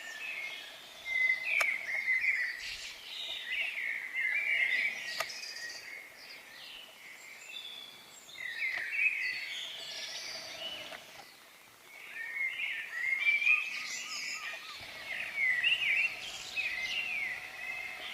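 Several songbirds chirping and singing in a dawn chorus, in quick overlapping phrases that come in bursts with short lulls between, over a faint outdoor background hum.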